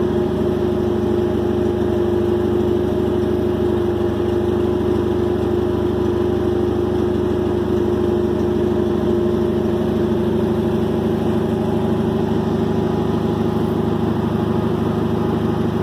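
Race car engine idling steadily and loudly, with an even, unchanging note.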